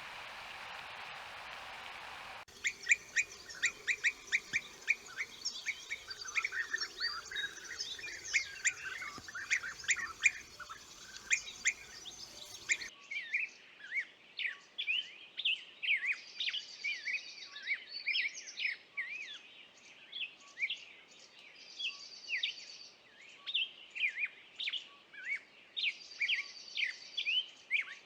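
A steady hiss for the first couple of seconds, then songbirds chirping in quick, sharp calls. About halfway through, the birdsong changes abruptly to a different chorus of chirps, with a short buzzy trill repeating every few seconds.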